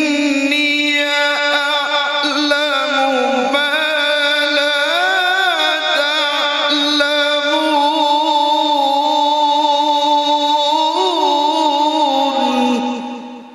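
A male qari's voice reciting the Quran in melodic tarannum style. He sings one long, unbroken phrase with winding ornaments on held notes, then fades out near the end.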